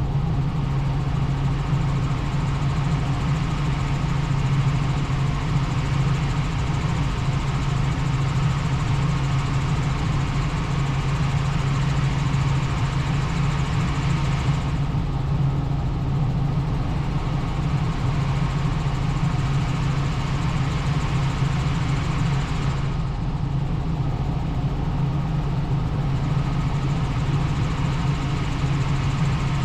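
Helicopter in flight: a steady, loud drone of engine and rotor with a strong low hum. The higher hiss thins out briefly twice.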